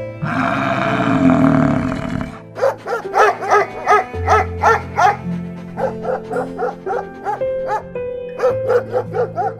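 A dog barking: a rough, noisy call for the first couple of seconds, then a quick run of short, high yapping barks, about three a second, over soft background music.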